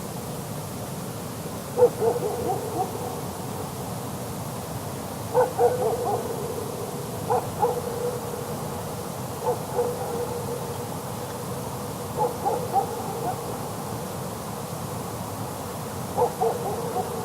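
A lone dog barking far off across a mountain pass, its barks muffled and hoot-like from the distance. About six bouts of a few barks each come every two to four seconds, with trailing echoes after each bout, over a steady background hiss.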